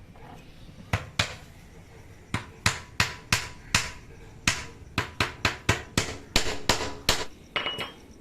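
Hammer driving small nails to fasten netting onto a wooden cage frame: a run of about eighteen sharp taps, coming faster in the second half.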